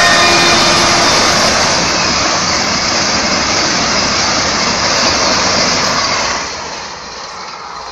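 Train 18 electric trainset rushing past at high speed, a loud steady rush of wind and wheels on rail. The tail of its horn, falling in pitch, fades in the first second. The rush drops away sharply about six seconds in.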